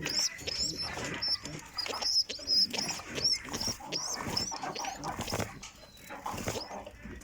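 Birds cheeping in quick, repeated high chirps, thinning out near the end, with irregular lower animal sounds mixed in.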